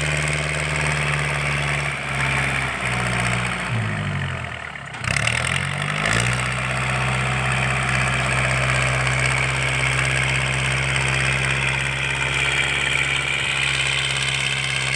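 L50 tractor's diesel engine running through an open straight-through aftermarket exhaust with no turbo, a loud pipe note. About two and a half seconds in, the engine speed sags for a couple of seconds and then picks back up to a steady run.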